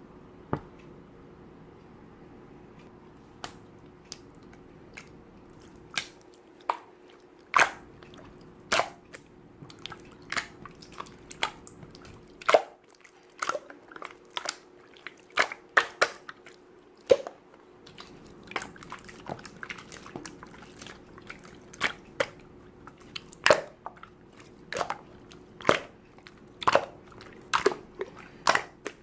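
Slime being squeezed and pressed by hand, making irregular sharp clicks and pops, over a faint steady hum.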